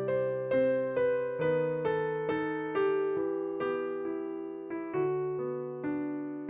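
Kurzweil PC4 keyboard playing a slow hymn melody on a piano voice: single notes struck about twice a second, each fading away, over bass notes that change every few seconds.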